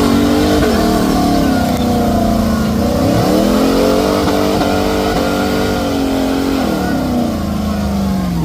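Mud truck engine revving hard under load. The pitch swells up about three seconds in, holds high, then drops back near the end.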